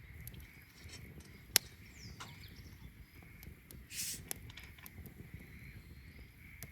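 Wood fire burning with a low steady rumble and scattered sharp crackles and pops, the loudest about a second and a half in, and a brief hiss about four seconds in.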